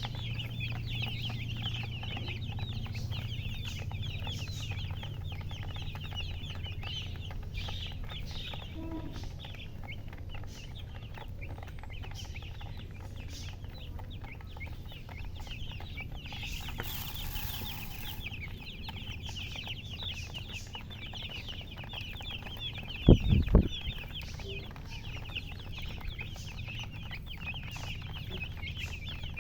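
A brood of baby chicks peeping continuously, many high, rapid chirps overlapping, over a steady low hum. Two or three loud thumps about three-quarters of the way through.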